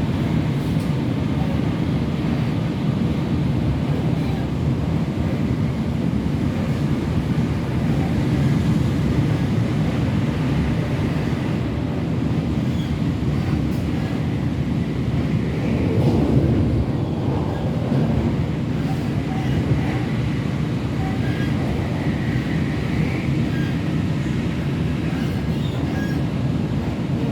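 Hong Kong MTR train running steadily, its rumble heard from inside the carriage.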